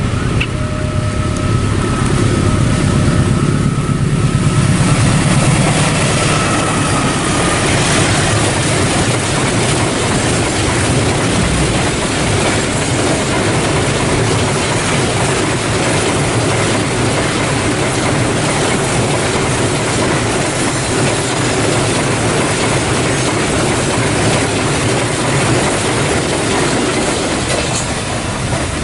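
A diesel-electric locomotive hauling a long container freight train passes at speed: engine rumble and a thin whine that drops in pitch about seven seconds in as the locomotive goes by, then the steady clatter of the container wagons rolling over the rails.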